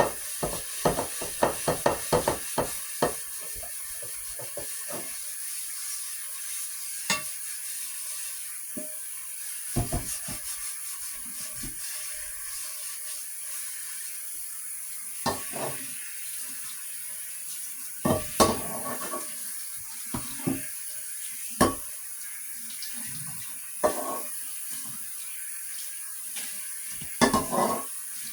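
Kitchen clean-up clatter: dishes, pots and utensils knocking and clinking, with a quick run of taps in the first few seconds and then scattered knocks.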